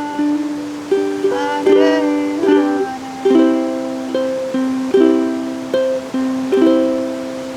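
Ukulele strumming a slow run of chords. Each strum rings out and dies away, about one a second.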